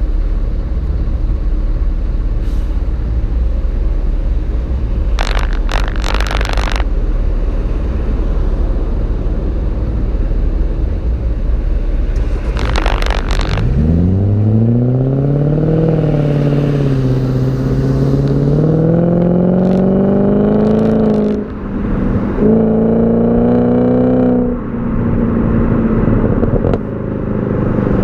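BMW E39 540i's 4.4-litre V8 exhaust, heard from the back of the car: a low steady rumble, then about halfway through the engine pulls under acceleration with rising pitch. Two gear changes near the end briefly break the rise, and the note drops back and settles.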